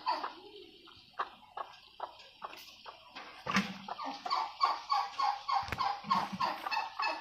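Turkeys calling in a run of short, quick yelping notes, about four or five a second; the calls thin out early on and come back steadily from about three and a half seconds in.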